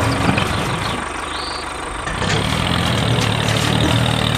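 An engine idling with a steady low hum that grows stronger about two seconds in.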